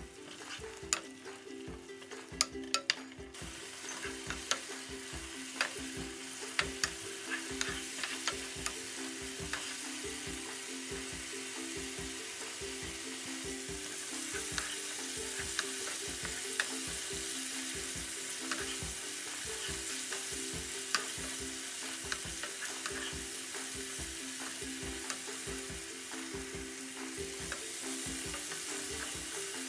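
Onions and masala frying in oil in a nonstick frying pan: a steady sizzle, stirred with a wooden spatula that clicks and scrapes against the pan. The sizzle grows louder about halfway through.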